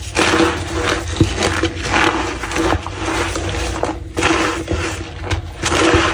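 Soft gym chalk being crushed, squeaking and crunching like footsteps on packed snow, in repeated squeezes about every half second to a second.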